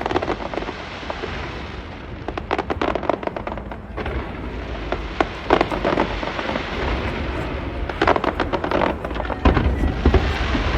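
Fireworks bursting in repeated volleys of rapid crackling pops, several clusters a few seconds apart, over a continuous low rumble.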